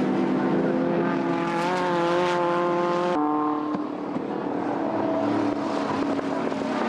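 Historic racing car engines running on the circuit. One car's engine note climbs slightly and then cuts off abruptly about three seconds in, as the footage switches to another car running at a lower pitch.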